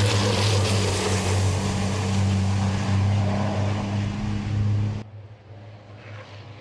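Racing trucks' diesel engines running loud and steady, then cutting abruptly to a much quieter engine sound about five seconds in.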